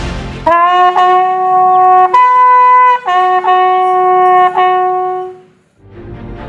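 Solo military bugle call: sustained notes on two pitches, the lower note sounded several times with one higher note in the middle, the last note fading away. Backing music comes back in near the end.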